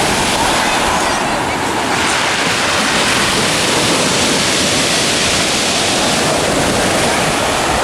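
Rough sea surf: heavy waves breaking and washing on the shore in a loud, continuous rush that swells and eases, with wind buffeting the microphone.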